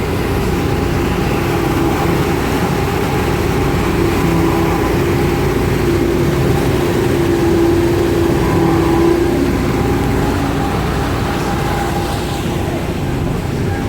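Engine running steadily: a low rumble under a held hum that swells slightly about halfway through and then eases back.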